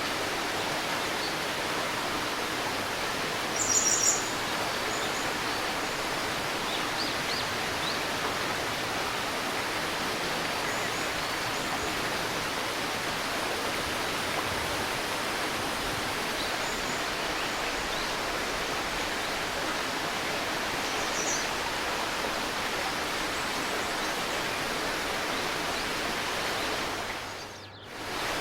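A river babbling steadily, with a bird giving a brief burst of high chirps about four seconds in and a few fainter chirps later. The water sound dips briefly near the end.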